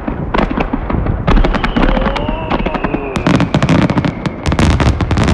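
Aerial fireworks going off in rapid succession, a dense barrage of bangs and crackling from the closing show of a fireworks contest. A long whistle falls slowly in pitch through the middle.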